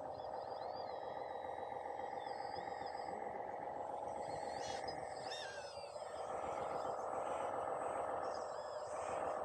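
Small electric motors and gearboxes of radio-controlled model construction machines whining steadily, with short high chirps over them.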